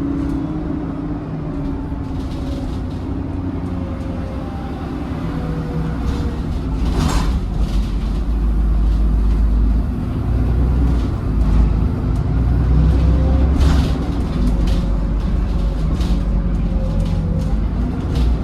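Double-decker bus T168 under way, heard from on board: a steady engine rumble with a whine that glides slowly in pitch, growing louder from about six seconds in as the bus pulls harder. Two brief hisses come through, about seven and fourteen seconds in.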